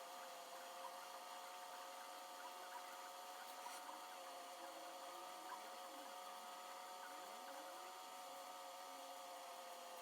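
Faint steady hum of a small motor, several constant tones together, with a few light clicks over it.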